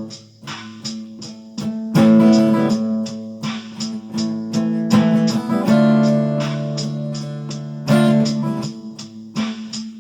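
Guitar playing an instrumental intro: chords picked and strummed in a steady rhythm, ringing on between strokes.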